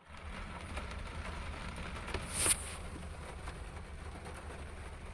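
Steady rain falling, with scattered drops ticking, and a brief louder burst of noise about two and a half seconds in.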